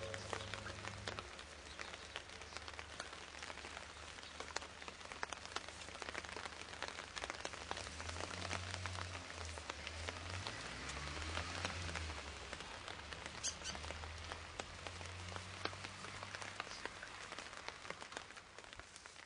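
Steady rain with many drops ticking close by, over a low rumble that swells in the middle and then eases.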